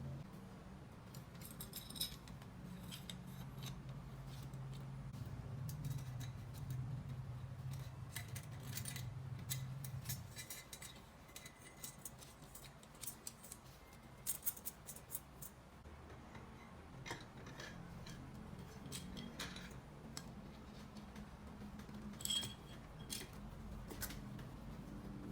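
Irregular small sharp clicks and clinks of hand tools and small engine parts being handled during work on a scooter engine, over a low steady hum that stops about ten seconds in.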